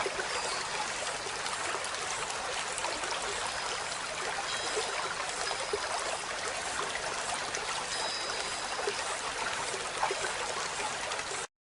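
A steady, dense hiss like running water, with faint, short high chirps of Eurasian tree sparrows scattered over it. The sound cuts off abruptly near the end.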